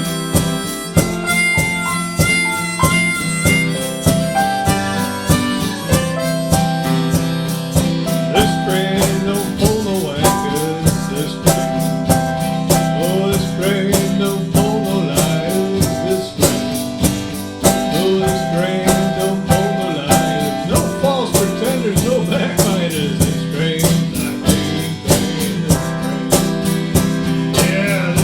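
Instrumental break of harmonica and acoustic guitar: the guitar is strummed in a steady, even rhythm while the harmonica plays a held, bending melody over it.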